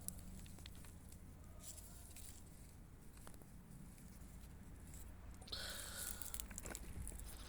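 Faint crunching and rustling of soil as potatoes are dug out of the ground, with a louder scraping stretch about five and a half seconds in.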